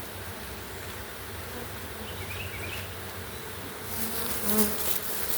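A swarm of honey bees buzzing in a steady hum, with louder rustling and clicks from close handling near the end.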